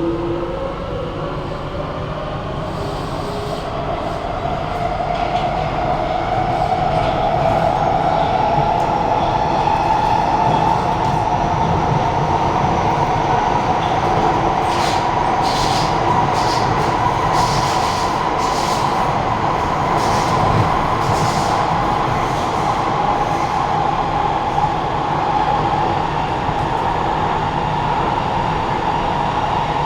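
Echoey traction-motor whine of a Kawasaki–CRRC Qingdao Sifang C151A metro train, heard inside the carriage as the train gathers speed. The pitch climbs for the first several seconds, then holds nearly steady and creeps up again near the end. Under it runs a steady low rumble of wheels on the track, with scattered light clicks midway.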